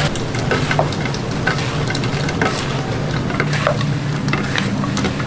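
Food frying and sizzling in hot oil, with scattered crackles and pops, over a steady low hum.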